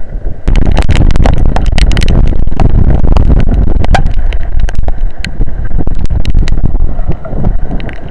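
Strong storm wind buffeting an outdoor camera microphone in a heavy rainstorm, a loud, continuous low rumble, with many sharp ticks from rain striking the microphone and camera housing.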